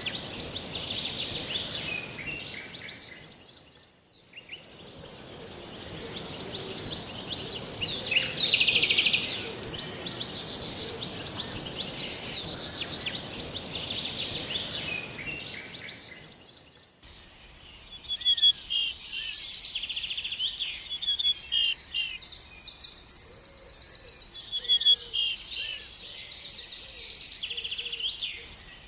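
Wild birds chirping and singing, with many short calls and fast trills overlapping. In the first part a steady high hiss runs under them. The sound dips out about four seconds in and again past halfway, and after that the birdsong is clearer, with rapid repeated notes.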